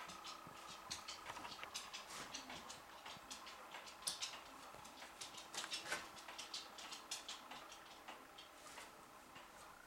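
Faint, irregular light clicking and tapping, several small clicks a second, with a few louder taps about four and six seconds in.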